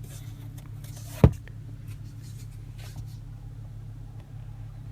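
Sun visor being clicked shut: one sharp click about a second in, over a steady low hum in the car cabin.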